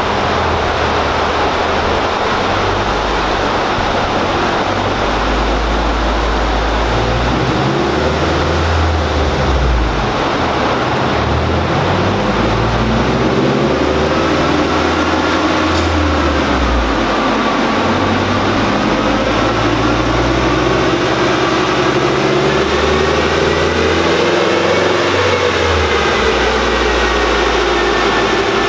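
Turbocharged Subaru FB20 flat-four engine running on a chassis dyno under a steady, loud rushing noise. From about halfway, the engine's pitch wanders slowly up and down as its speed is varied.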